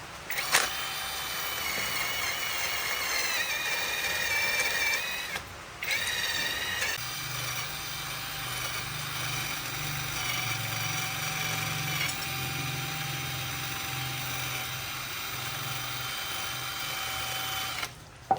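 A small electric power tool running with a high whine whose pitch wavers as it works. It stops briefly about five and a half seconds in, starts again, and cuts off just before the end.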